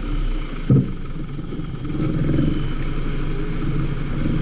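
Toyota Corolla's engine idling steadily while the car stands still, with one sharp thump about a second in.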